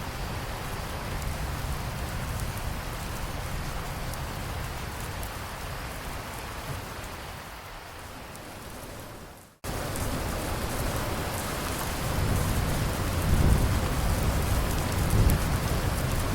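Steady heavy rain falling that fades down and cuts out abruptly for an instant about halfway through, then starts again. Low rolling thunder rumbles in near the end.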